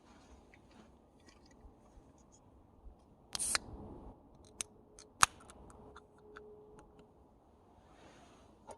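A short rustling scrape, then a run of small sharp clicks, one much louder than the rest about five seconds in.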